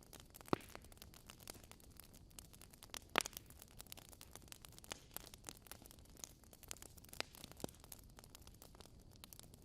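Fire burning in a fireplace, crackling steadily with many small snaps and a few sharper pops, the loudest about half a second in and about three seconds in.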